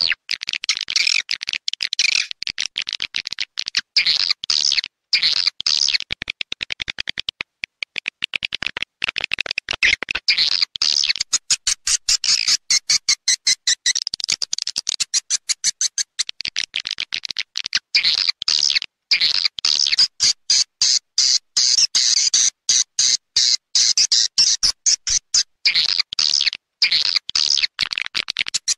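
Swiftlet lure call track: fast, chattering high-pitched chirps and twitters of swiftlets, broken up by frequent short gaps. It is the kind of recording played from a swiftlet house to draw birds in to nest.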